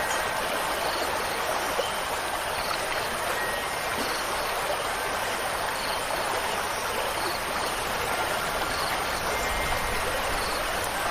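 Steady rushing water of a stream, with a few faint wind chime tones near the start and near the end.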